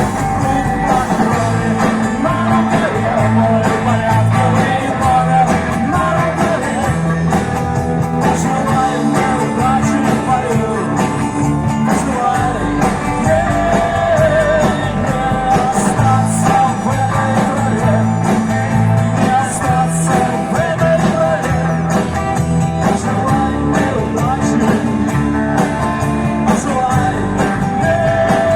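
A pop-rock band playing a song, with guitar over a steady bass and drum beat.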